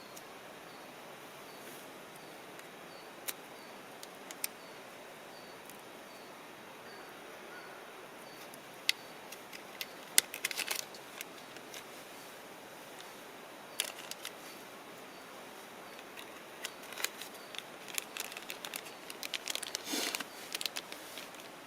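Scattered sharp clicks and crackles over a steady low hiss, coming more thickly near the end.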